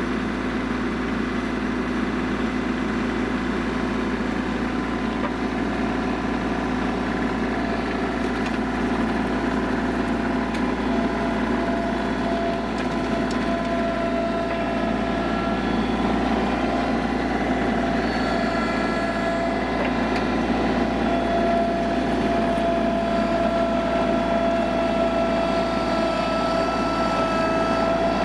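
Mahindra eMax 25 compact tractor's diesel engine running steadily while pulling a big rear scraper blade through dirt. A higher whine grows stronger over the second half.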